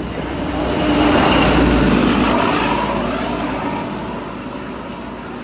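XPT diesel passenger train passing at speed: a loud rushing noise that swells to a peak about a second in and fades away as it goes by.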